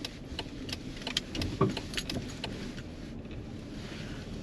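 A car with a steady low rumble and scattered light clicks and rattles through the first half.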